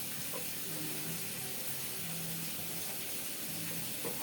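Onions frying in hot oil in a pan, giving a steady sizzle.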